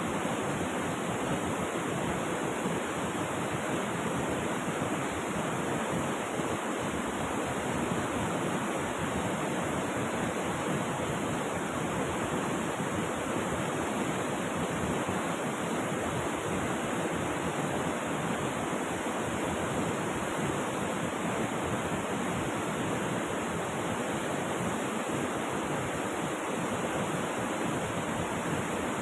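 River water rushing steadily: a constant, even sound with no breaks or separate splashes.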